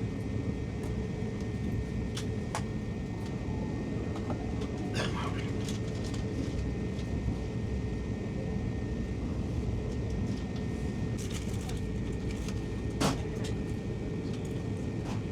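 Steady low rumble inside a moving Brightline passenger train car, with a faint steady whine and a few short clicks or knocks, the loudest about thirteen seconds in.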